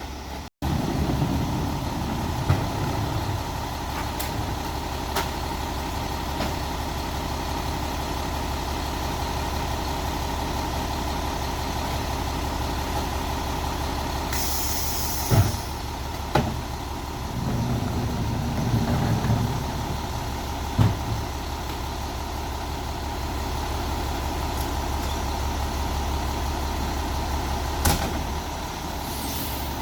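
Peterbilt 320 side-loader garbage truck running steadily, with a short air brake hiss about halfway through and several sharp knocks.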